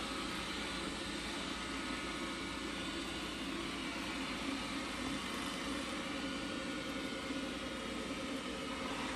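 Robotic vacuum cleaner running steadily, its suction motor and brushes giving an even whirring hum.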